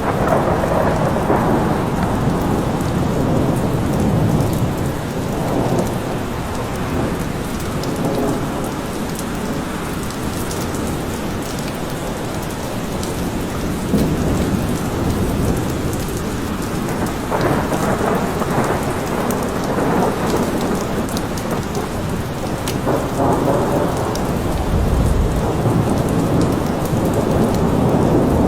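Rain falling steadily in a forest, with low thunder rumbling and swelling several times.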